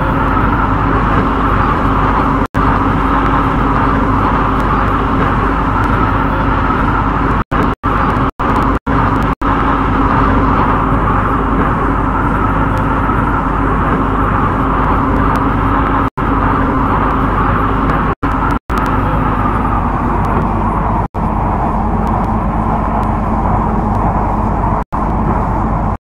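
Steady noise of an MTR C-Train electric multiple unit heard from inside the train, with a constant low hum under an even rushing sound that eases slightly near the end. The sound drops out to dead silence for a split second about a dozen times.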